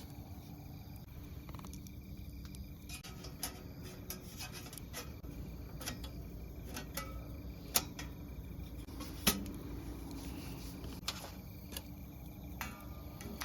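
Scattered light clicks and knocks of small metal camp gear being handled, two sharper clicks near the middle, over a low steady background.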